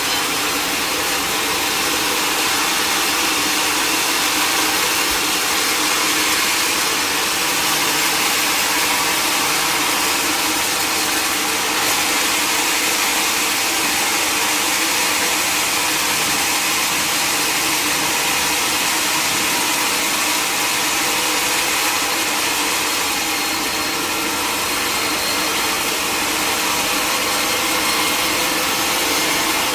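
Sawmill machinery running steadily: a loud, continuous mechanical noise with a steady whine that does not rise or fall.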